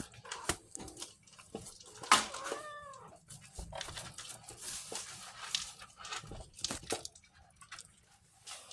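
A cat eating dry cat food, with scattered crunching clicks, and one short meow that rises and falls about two seconds in.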